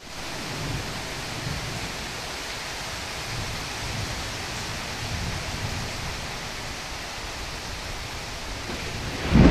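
Heavy rain falling steadily, a dense even hiss. Just before the end, a sudden loud clap of thunder breaks in.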